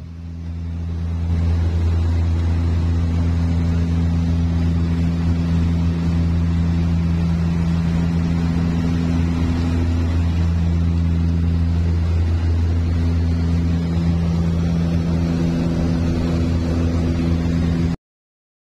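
L-410 UVP Turbolet's Walter M601 turboprop engine running, a steady propeller drone with a low hum. It builds up over the first second or so, then holds level.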